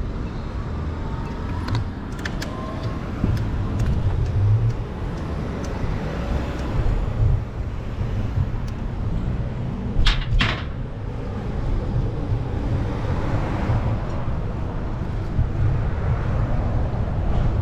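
City street traffic: a steady low rumble of motor vehicles, with faint rising and falling tones and a brief sharp hiss about ten seconds in.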